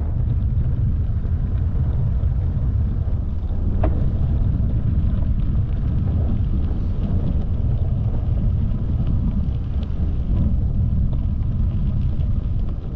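Steady low rumble of wind buffeting the microphone of a camera on a moving bicycle, mixed with rolling noise, with a single sharp click about four seconds in.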